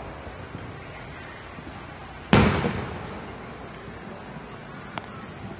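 An aerial firework shell bursting with a single boom about two seconds in, its rumble dying away over about a second. A fainter sharp crack follows near the end.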